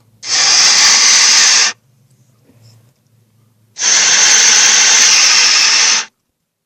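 Monster sound effect: two loud, harsh, hissing roars, the first about one and a half seconds long and the second about two seconds, each starting and stopping abruptly.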